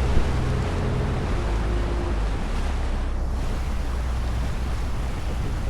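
Small tour boat underway on the fjord: a steady low engine rumble beneath wind on the microphone and the rush of water past the hull.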